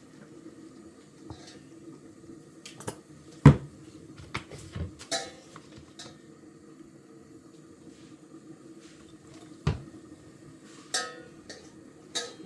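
Scattered knocks and clinks of kitchen utensils and dishes during food preparation, the sharpest about three and a half seconds in and another near ten seconds, over a steady low hum.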